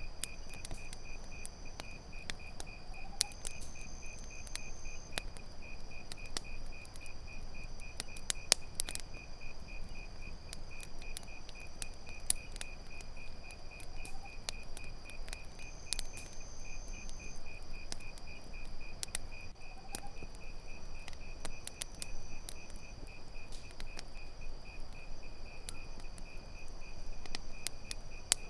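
Crickets chirping in a steady, evenly pulsed trill, with other insects keeping up a steady higher drone. Scattered sharp pops and crackles from a burning campfire come through at irregular moments.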